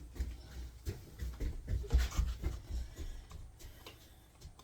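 Irregular clicks, scrapes and light knocks of hands working an air filter onto a small engine's carburetor, with low rumbling bumps.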